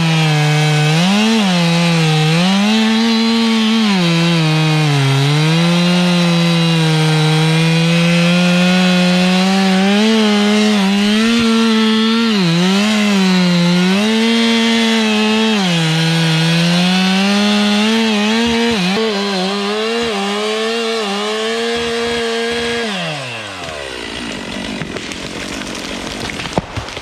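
Wood-Mizer LT15 band sawmill's engine running under load while the band blade cuts through a pine log, its pitch sagging and recovering over and over. About 23 seconds in, the engine winds down and stops, leaving quieter rattling with a click near the end.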